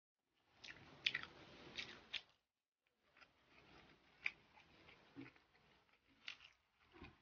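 Close-miked chewing of a soft piece of cumin-fried egg: wet mouth sounds with sharp lip-smacking clicks, in two stretches with a short pause a little over two seconds in.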